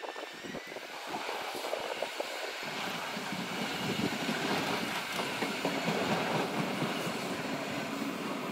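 A multi-car passenger train rolling past on a far track, a steady rumble of wheels on rails that sets in about two and a half seconds in and slowly builds.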